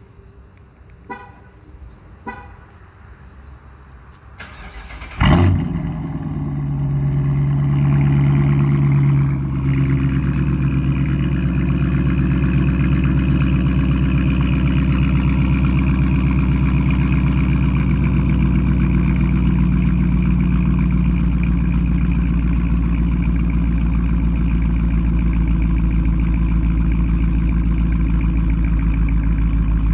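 2019 Dodge Challenger R/T's 5.7-litre Hemi V8 starting on a semi-cold engine through an exhaust with the mid mufflers deleted. It fires with a loud burst about five seconds in after a few faint clicks, runs a fast idle, then drops a few seconds later to a steady, deep idle.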